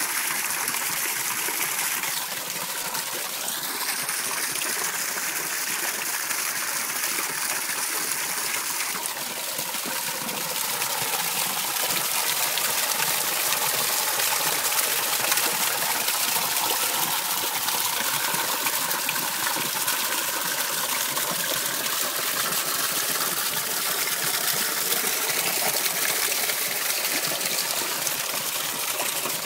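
Running water flowing steadily, a constant rushing hiss, with a faint tone rising and then holding in it from about two to nine seconds in.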